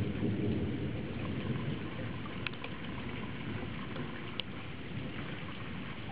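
Steady rain falling, with a low thunder rumble that is strongest at the start and fades over the first couple of seconds. A few sharp ticks of drops hitting something come near the middle.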